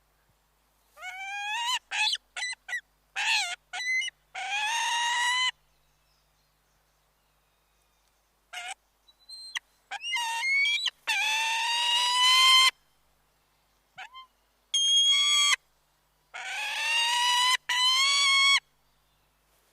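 Bird calls: a series of pitched cries, the longest about a second or more and rising slightly, with short chirps between them and silent gaps.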